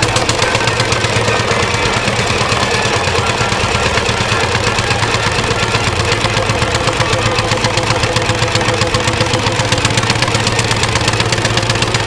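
An engine running steadily with a fast, even beat over a low hum.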